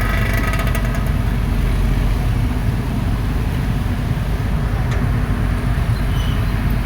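Excavator's diesel engine running steadily, with light rapid clattering in the first second.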